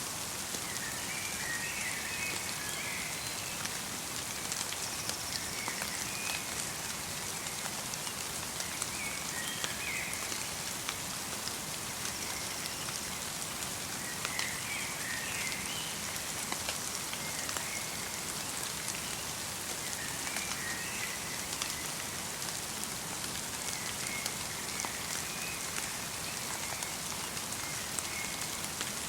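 Steady light rain: an even hiss of falling drops with scattered sharper drip ticks. Faint short bird chirps come every few seconds.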